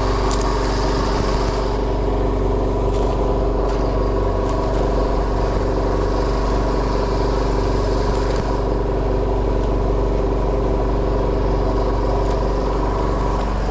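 Fishing boat's engine running steadily at a constant speed, an even mechanical hum with no change in pitch.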